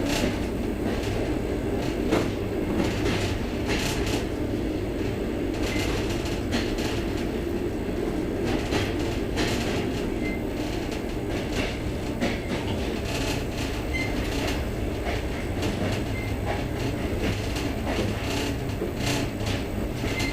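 Moving passenger train heard from inside the carriage: a steady low rumble with frequent, irregular clicks and knocks from the wheels and carriage.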